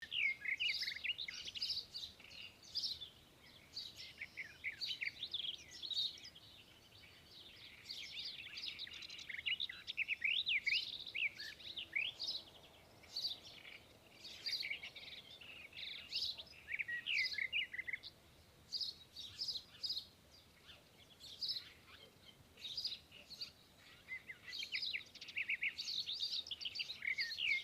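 Several birds chirping and calling together, a steady stream of short, high, quick-sweeping notes that overlap one another, with brief lulls between busier stretches.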